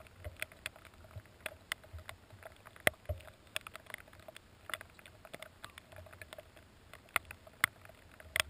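Raindrops striking the GoPro camera housing: sharp, irregular ticks, several a second, over a faint low rumble.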